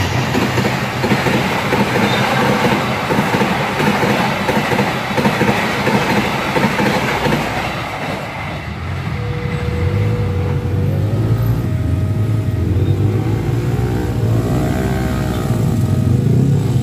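Passenger coaches of a fast express train rushing past close by, a loud rumble of wheels on the rails that fades after about eight seconds as the train moves away. Then the low hum of motorcycle and car engines waiting at the level crossing takes over, with a few steady and rising-and-falling tones.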